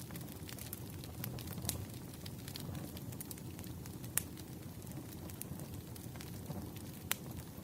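Wood fire crackling, irregular sharp pops and snaps over a steady low rumble, with two louder pops about four and seven seconds in.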